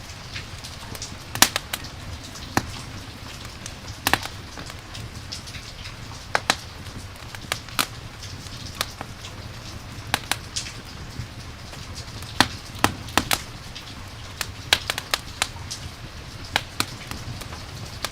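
Campfire crackling: irregular sharp pops and snaps of burning wood over a steady rushing bed of rain with a low rumble.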